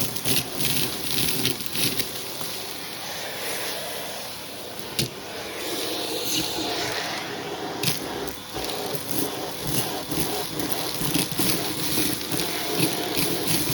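Hoover vacuum cleaner running with a hose tool, sucking sprinkled debris mix off a shag rug. There is an uneven crackle as the debris is drawn in, and two sharp clicks.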